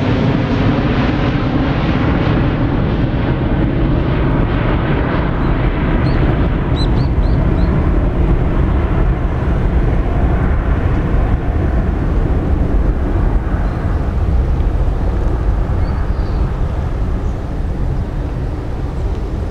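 Boeing 737-800 jet engines running as a loud, steady low rumble after its landing. The higher hiss and whine fade over the first several seconds as the aircraft draws away.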